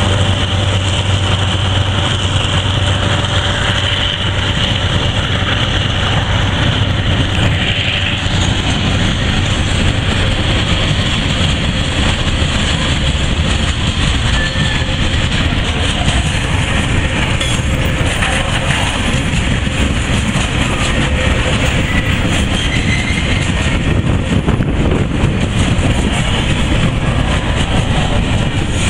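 Freight train's container flat wagons rolling past at close range: a steady rumble and rattle of steel wheels on rail. A low diesel drone from the departing locomotives fades out over the first several seconds.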